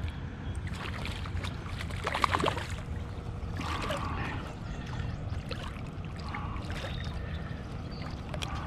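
River water sloshing and trickling around a kayak, with a few light knocks and splashes scattered through it.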